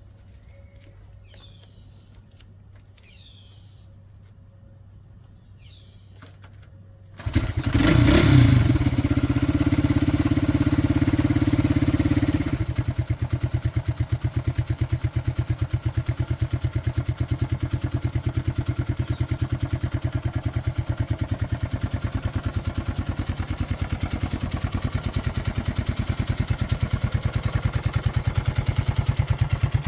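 A 1975 Honda CB125S single-cylinder four-stroke engine catches from cold about seven seconds in. It revs briefly and runs at a fast idle. About five seconds later it drops to a slower, even idle. Faint chirps come before the start.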